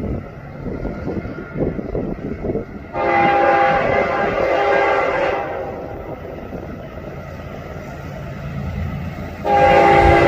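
Diesel freight locomotive's air horn sounding a chord of several notes: one blast of about two seconds starting around three seconds in, and a second blast starting near the end, over the low rumble of the approaching train.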